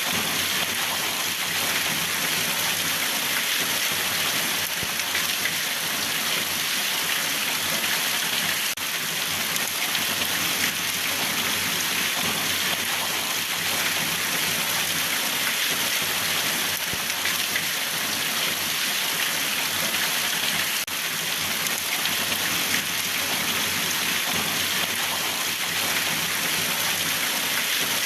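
Steady rainfall, a dense even patter of raindrops on surfaces.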